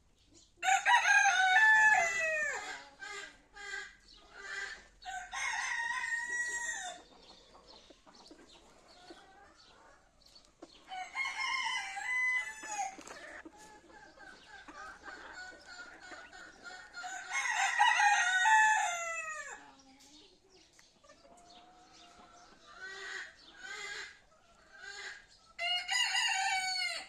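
Buff Polish rooster crowing about five times, a few seconds apart, with softer clucking between the crows.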